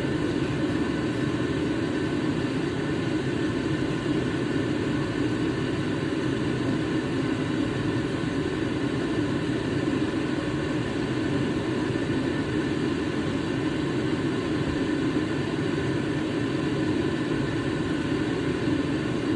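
Steady mechanical whirring hum of a running motor, even and unchanging, with faint steady tones riding above it.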